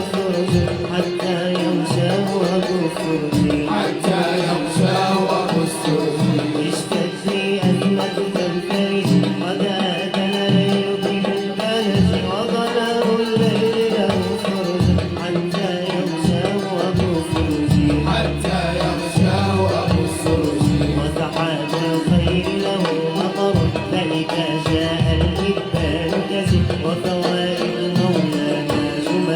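Malouf ensemble music: an ornamented melody over hand drums beating a steady rhythm.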